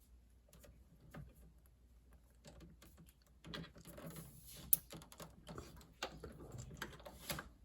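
Faint, irregular clicks and rattles of plastic tube clips and fittings being handled on a refrigerator's water inlet solenoid valve, with one sharper click a little past the middle.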